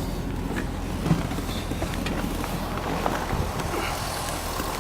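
Chevrolet LS2 6.0-litre V8 from a 2005 C6 Corvette idling steadily with a low, even hum, and no knock or tick from the engine.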